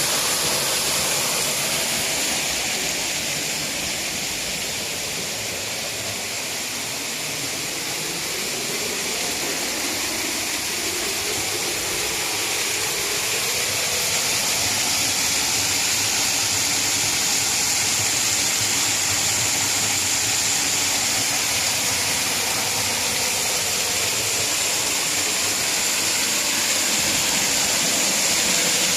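Waterfall rushing: falling water making a steady hiss that eases slightly a few seconds in, then holds level.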